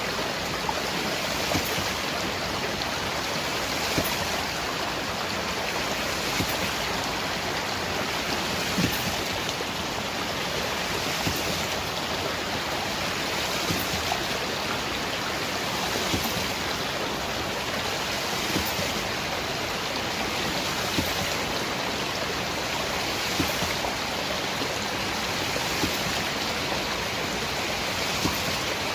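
Hydraulic ram pump at work: a steady rush of flowing water with a short sharp click about every two and a half seconds, the waste valve slamming shut on each pumping stroke.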